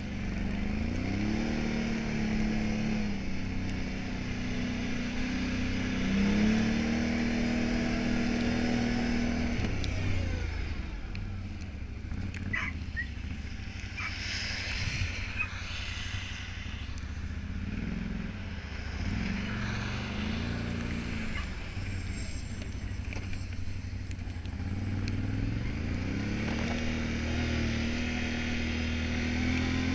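Can-Am Outlander 570 XT ATV's V-twin engine running while plowing snow, its pitch rising and falling several times as the throttle is opened and eased off, with a few sharp clicks about halfway through.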